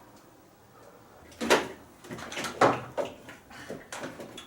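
Hand tools clanking on metal, a run of irregular knocks and clunks beginning about a second and a half in, as a wrench is put to the starter nut.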